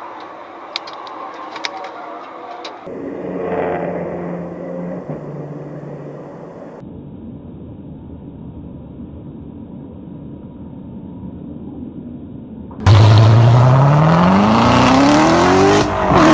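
Car engine sounds across several short clips. About three-quarters of the way in, a loud engine revs hard under acceleration, its pitch climbing steeply.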